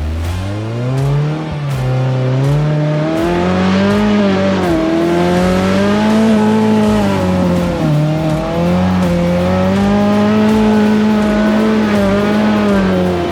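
Suzuki Samurai's four-cylinder engine revving hard under load as the 4x4 is driven through snow. It climbs in pitch at the start, holds high revs with two brief dips, and winds down near the end.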